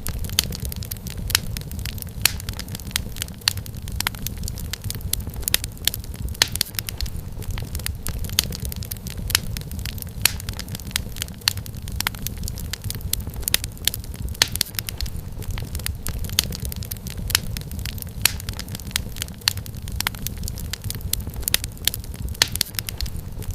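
Wood fire burning in a fireplace: a steady low rumble of flame with frequent sharp, irregular crackles and pops of firewood.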